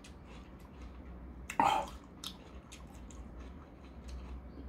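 Close-miked chewing of a mouthful of watermelon: soft wet clicks from the mouth, with one short, loud mouth noise about one and a half seconds in.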